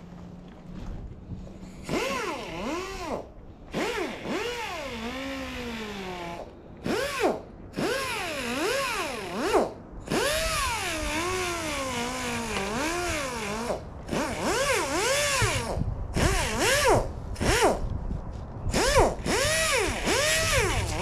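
Cordless drill run in a string of short trigger bursts, its motor whine speeding up and slowing down in each one.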